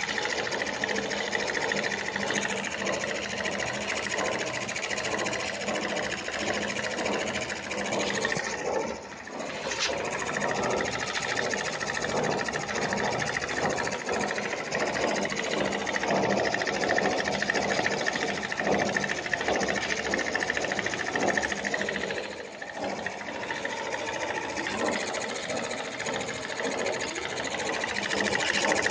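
Small homemade model steam engine running fast and steady, a rapid continuous mechanical clatter that dips briefly twice.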